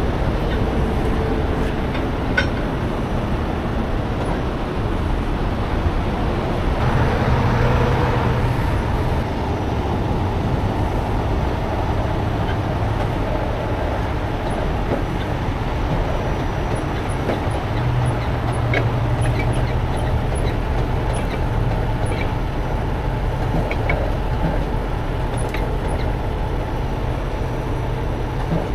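Heavy diesel engine running steadily over constant freeway traffic noise, its low note swelling twice, about seven and eighteen seconds in, with a few light clicks and knocks.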